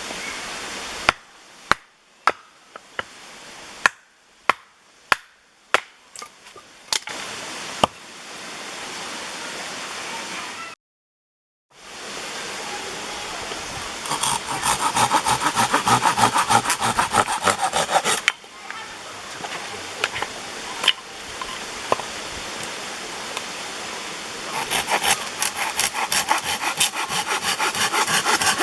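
Hand saw cutting through firewood in fast, even rasping strokes, in two spells. It is preceded by about eight sharp wooden knocks, followed by a brief cut to silence.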